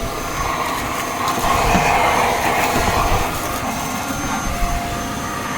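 Shark stick vacuum cleaner running steadily, its motor giving a dense rush of suction noise with a thin high whine over it.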